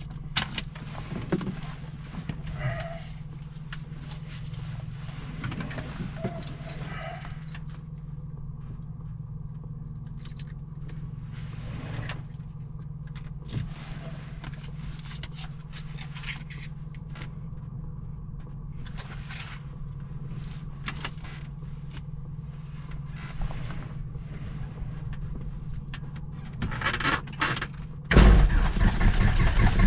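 Cockpit handling noises, keys jangling and scattered clicks, over a steady low hum. Near the end the Cessna 172's piston engine starts and runs much louder.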